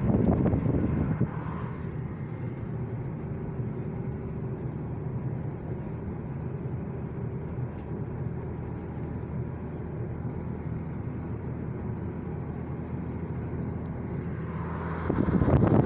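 A steady low motor hum, like a vehicle engine running. A louder rush of wind on the microphone covers it for the first second or so and again near the end.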